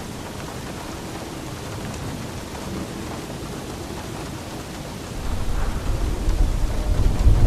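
Steady rain falling, with a deep rumble of thunder that swells in about five seconds in and keeps growing louder.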